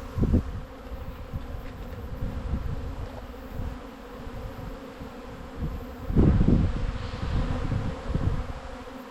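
Many honey bees buzzing around an open hive, a steady hum. Low irregular rumbles on the microphone come and go, the loudest about six seconds in.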